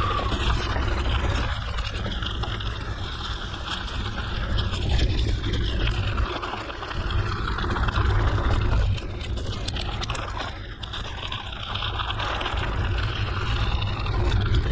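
Mountain bike rolling along a dirt forest road: tyres on the loose surface mixed with heavy wind rumble on the microphone, steady with small surges.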